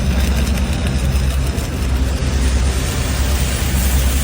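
MIG welder arc running steadily: an even hiss with a constant low hum underneath.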